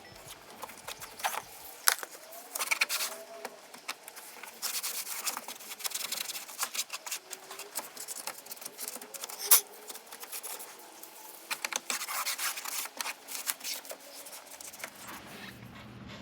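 Scrubbing and wiping a plastic dashboard map pocket with all-purpose cleaner: bouts of rough scratching and rubbing strokes, with one sharp click about halfway through.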